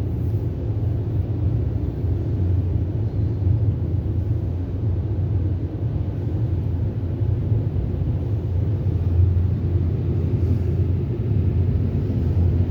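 Ryko Voyager in-bay automatic car wash running over a car, heard from inside the car as a steady low rumble.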